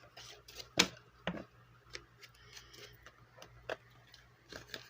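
Scattered light clicks and taps of hands handling paper savings-challenge sheets and a pen or marker, the sharpest click a little under a second in.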